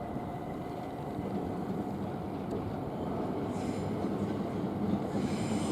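A Southern Class 377 Electrostar electric multiple unit approaching on the line into Victoria, a steady rail rumble that slowly grows louder, with a higher hiss coming in near the end.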